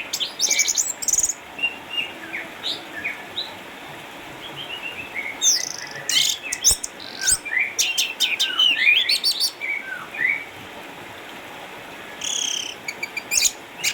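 Orange-headed thrush singing a long, varied song of short whistled notes, chirps and rapid high trills, with brief pauses between phrases.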